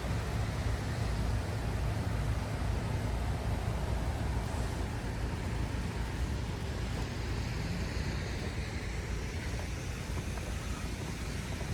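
Steady low rumble of city traffic, with an even hiss above it and no single event standing out.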